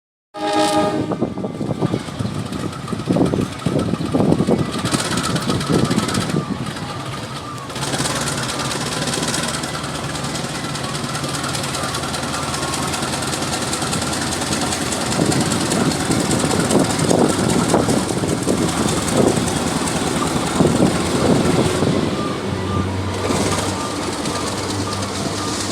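Freight train pulling out of a station: a diesel locomotive's engine running steadily under the rumble and clatter of the wagons on the rails.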